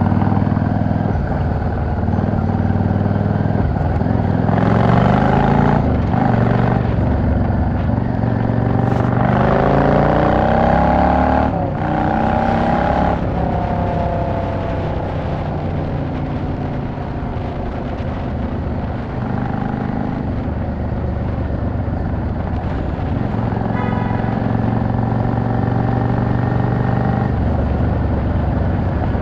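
Yamaha XVS 650 V-Star's V-twin engine under way, running at low revs, then rising in pitch through a couple of gear changes about a third of the way in before settling back to a steady, lower note.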